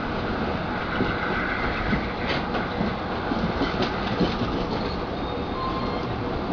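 Passenger train running along the rails, heard from an open window of one of its cars: a steady rumble and clatter of wheels over the track, with a faint high wheel squeal in about the first second.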